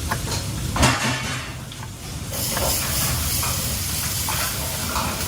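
Food frying in a hot pan: a knock about a second in, then the sizzle grows louder a little after two seconds in and holds steady.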